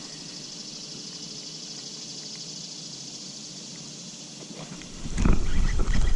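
A steady, high, pulsing drone of insects, crickets or cicadas, in summer. About five seconds in, a loud low rumble with a few knocks starts up close to the microphone.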